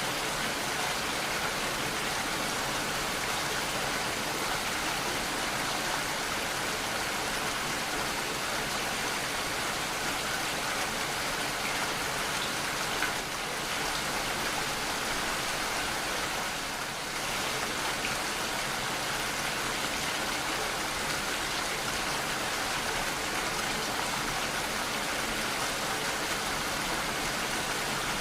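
Steady, heavy rainfall: a dense, even hiss of rain falling on surfaces, with no thunder in this stretch.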